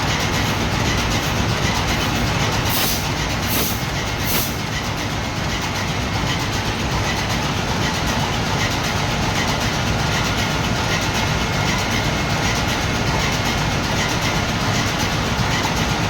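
Ship's diesel engine running steadily, a loud continuous machinery noise, with three short high hisses about three to four and a half seconds in.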